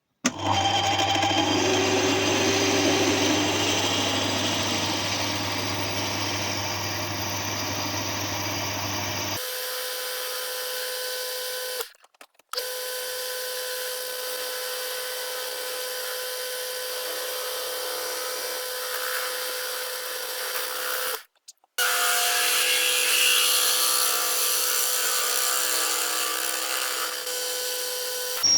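Power tool running steadily in separate edited stretches. The first stretch has a strong low hum, the later ones a steadier tone, and the sound breaks off briefly twice.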